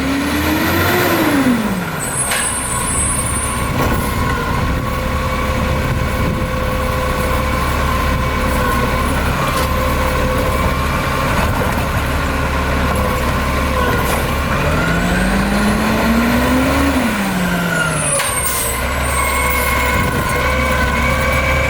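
Garbage truck's diesel engine running steadily, revving up and back down twice, near the start and again about fifteen seconds in. Each rev is followed by a brief hiss of air.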